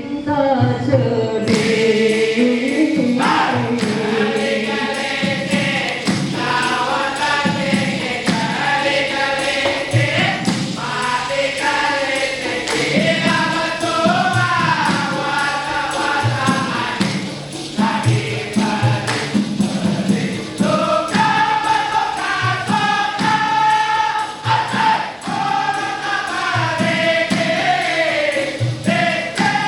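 A vocal group singing together in harmony, with a steady percussion beat behind the voices.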